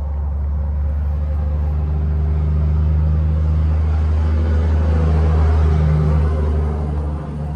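Low engine rumble of a motor vehicle, swelling to its loudest about five seconds in and dropping away near the end.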